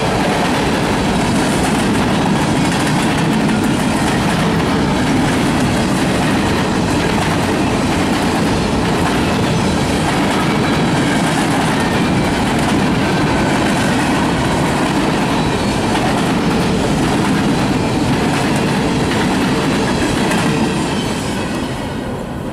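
Freight cars of a mixed train, tank cars and a centerbeam flatcar, rolling past close by, with steady clattering of the wheels on the rails. The noise falls away about 21 seconds in as the end of the train passes.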